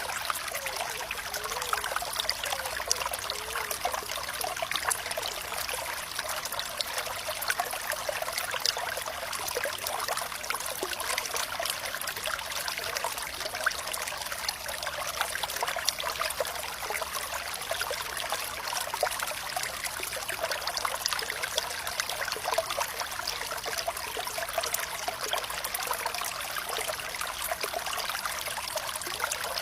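Running water trickling and splashing steadily, like a small stream, a dense patter of tiny splashes with no deep rumble.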